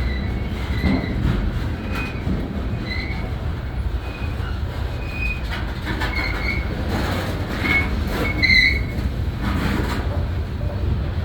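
Grain train's cars rolling along the track: a steady low rumble with short, high wheel squeals every second or so, the loudest near the end, and a few clicks from the wheels.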